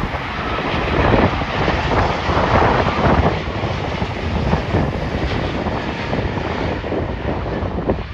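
Arriving jet airliner's engines passing on landing approach, swelling about a second in and easing off after about three seconds, mixed with heavy wind noise buffeting the microphone.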